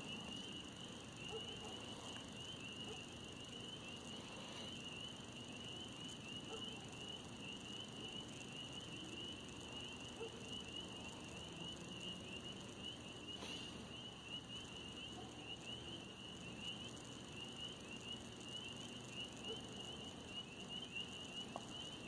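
Faint, steady, high-pitched chorus of insects trilling without a break.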